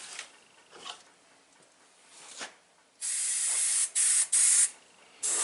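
Airbrush spraying in bursts of hissing air: a burst of about a second some three seconds in, two short bursts, then another starting near the end.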